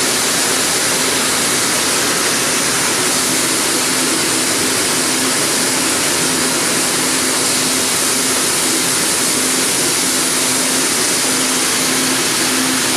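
Chocolate ball mill running: a steady, loud rushing noise, with a constant low hum that comes in about three seconds in.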